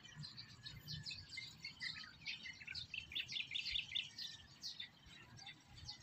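Faint chirping of small birds, many quick high notes that are thickest about midway.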